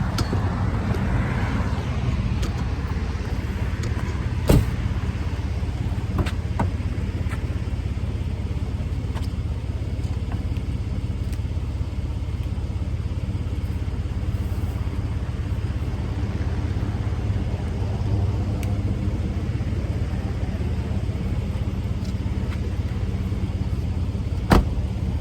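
Steady low rumble of a truck running, heard inside the cab, with two sharp knocks: one about four and a half seconds in and one near the end.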